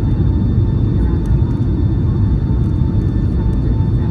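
Boeing 757-200 cabin noise heard from a rear window seat in flight: a steady, heavy low rumble of engines and airflow with a faint steady whine on top.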